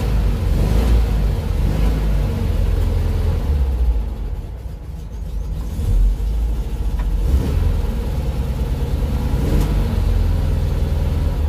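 VW Type 2 bus's air-cooled flat-four engine running at a raised idle, held up by a hand throttle cable pulled from the dash. The engine sound eases a few seconds in and comes back up around the middle.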